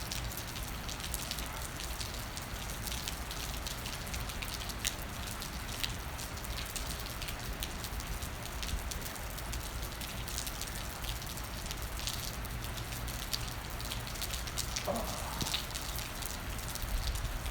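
Steady rain falling, with individual raindrops ticking sharply close to the microphone over a constant low rumble.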